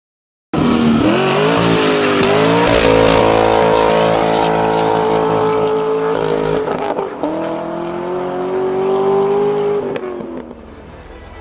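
A car engine accelerating hard under load. Its pitch climbs and then drops back at gear changes about two, six and a half and seven seconds in. It fades away near the end.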